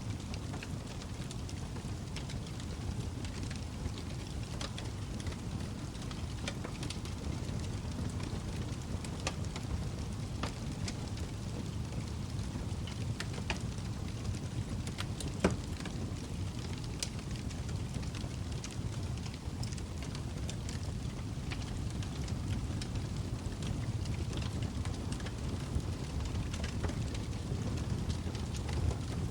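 Log fire burning in a fireplace: a steady low rush of flames with scattered sharp crackles and pops, one loud pop about halfway through.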